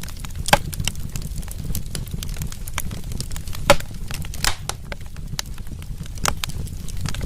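Wood fire crackling in a fireplace: a steady low rumble with dense, irregular pops and snaps, two louder pops about half a second in and near the middle.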